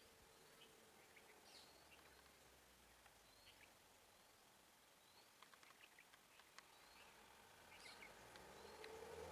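Faint outdoor ambience with scattered short high bird chirps and ticks. Near the end a low hum, likely an approaching engine, begins to rise in pitch and grow louder.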